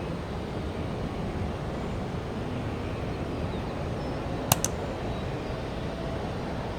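Steady rumble of distant jet aircraft engines, with two quick sharp clicks about four and a half seconds in.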